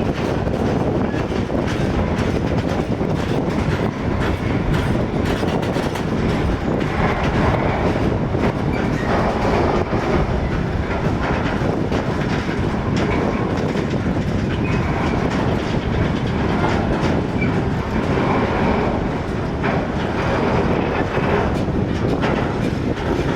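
A train rolling through the station, its wheels clattering over rail joints and points in a steady stream of clicks and rumble.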